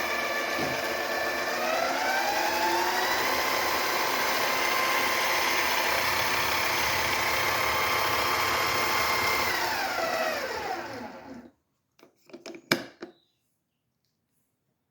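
Mini lathe running on its new motor and speed controller. Its whine rises in pitch as the speed is turned up about two seconds in, holds steady, then falls and stops about eleven seconds in. A few sharp clicks follow near the end.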